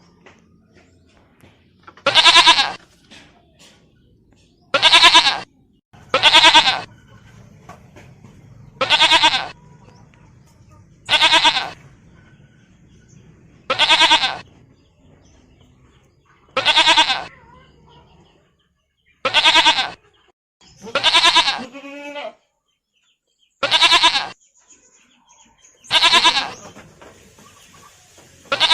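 Goat bleating: about a dozen short, wavering bleats, one every two to three seconds.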